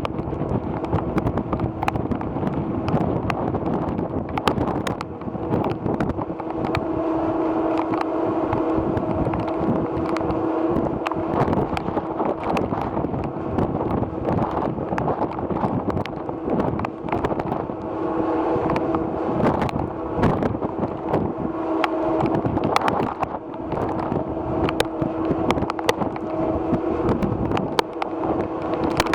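Ferry's engines humming steadily, with wind buffeting the microphone and many sharp ticks throughout.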